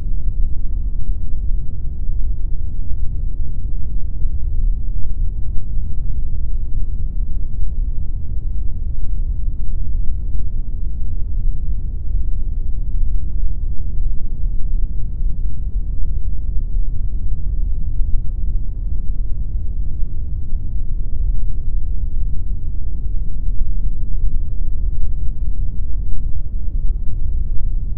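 Continuous generated pink noise: a steady, even, deep rumbling hiss with most of its weight in the bass, fading toward the treble. It has no changes or events.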